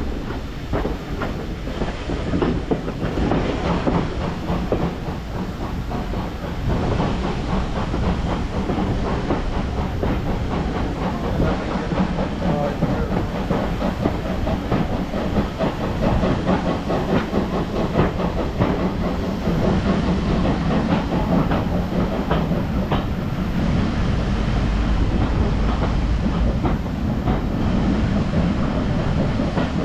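Steam-hauled heritage train running along the line, its wheels clattering on the rails with a steady rumble.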